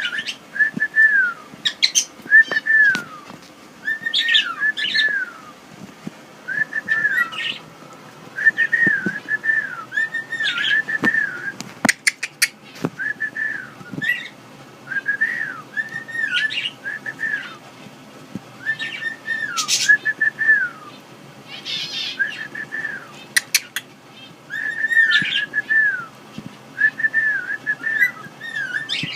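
Female pet cockatiel whistling: short falling whistled notes in clusters of two or three, with sharp higher chirps among them, repeated with short pauses.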